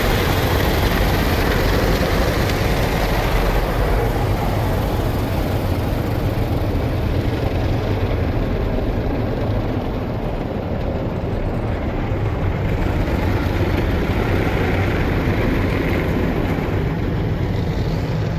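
Side brushes of a WashTec SoftLine 2 car wash tunnel scrubbing along a car's sides: a steady, loud, dense wash of spinning brush, water and machinery noise.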